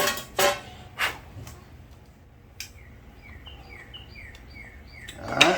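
Three short sharp clicks of parts or tools being handled in the first second, then a bird giving a quick run of short falling chirps, about three a second.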